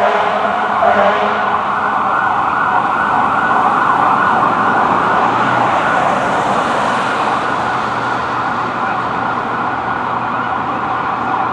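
Emergency vehicle sirens sounding steadily, with a vehicle engine running underneath.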